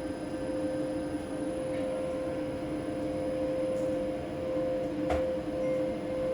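A repaired LS SV300iP5A-2NO inverter running on test, driving an electric motor that hums steadily at a constant pitch, with a faint high whine above it. There is a single click about five seconds in.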